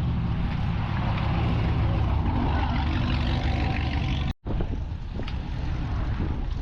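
Car engine running steadily with a low, even pitch under a noisy haze; the sound drops out for an instant about four and a half seconds in.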